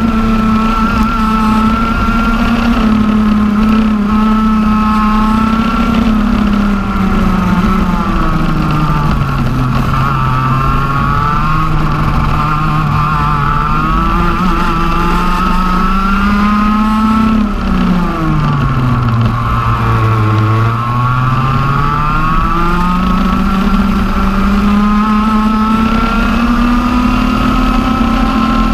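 TM OK-class 125 cc two-stroke kart engine running hard on a lap, its high whine rising on acceleration and falling twice as the kart slows for corners: a gradual dip about a third of the way through, then a sharp, deep drop just past halfway before it climbs back to full revs.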